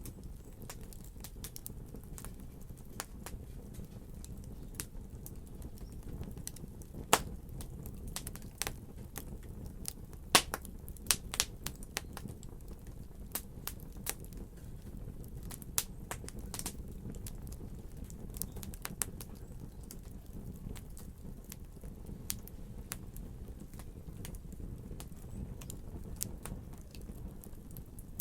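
Fireplace fire crackling, with sharp pops over a steady low rumble and a cluster of louder pops about ten seconds in.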